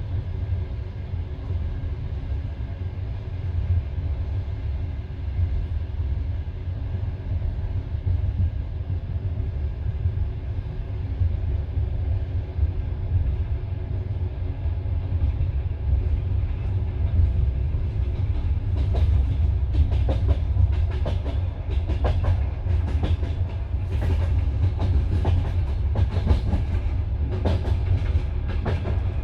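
Passenger train carriage running on the rails, a steady low rumble heard from inside the car. About two-thirds of the way through, sharp wheel clicks begin, coming fast and irregularly as the wheels pass over the track.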